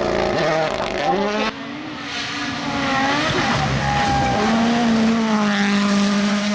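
Rally car engines revving hard, pitch climbing and dropping through the gears, with a sudden change about a second and a half in as one car gives way to another.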